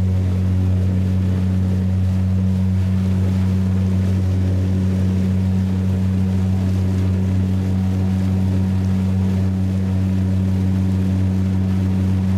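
A boat's motor running at a steady speed, a constant low hum that does not change.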